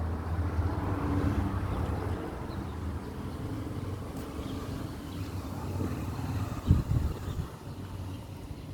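A vehicle's engine hum fades away over the first couple of seconds, leaving a steady rush of strong wind. Near the end come a few low thumps of wind buffeting the microphone.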